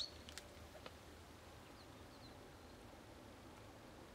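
Near silence, with a few faint clicks in the first second and a few faint, short high chirps of small birds about two seconds in.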